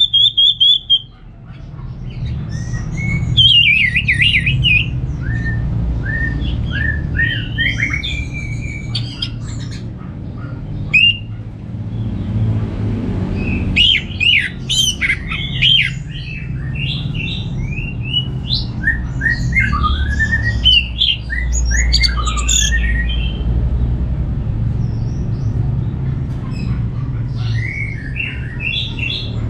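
Orange-headed thrush singing a rapid, varied song of short gliding whistles and chattering notes in quick phrases, denser in the second half, over a steady low hum.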